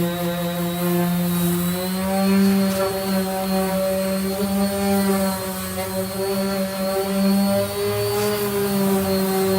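Power sander with a 240-grit disc running steadily while sanding body filler, a constant motor hum whose pitch steps up a little about two seconds in.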